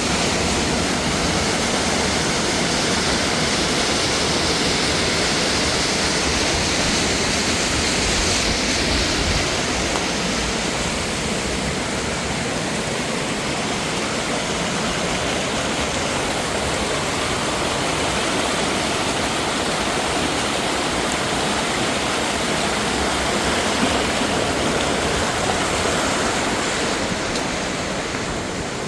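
Mountain waterfall and water rushing over rocks: a loud, steady, even rush.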